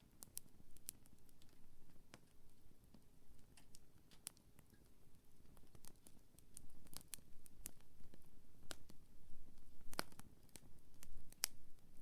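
Wood campfire crackling: irregular sharp pops and snaps of burning wood over a low, soft rumble. A louder pop comes about ten seconds in and another near the end.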